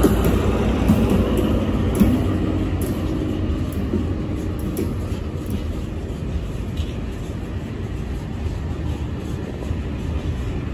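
SNCF Fret BB 75000-class diesel locomotive's engine fading away in the first couple of seconds, then the steady rumble of loaded container flat wagons rolling past, with occasional wheel clicks, slowly getting quieter.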